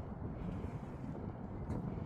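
Wind buffeting the microphone: a steady low rumble that swells and fades.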